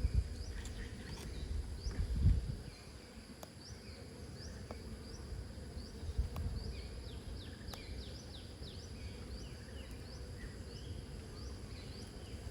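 Outdoor ambience: a short high chirping call repeated about one or two times a second over a steady high insect whine, with low rumbling handling noise near the start.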